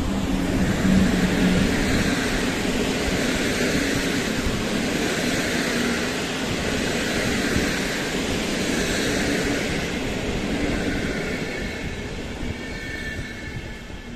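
Locomotive-hauled passenger train passing on the rails: a loud, continuous rumble of coach wheels over the track, with a low hum from the electric locomotive at the start. The rumble fades away near the end as the last coaches pull off.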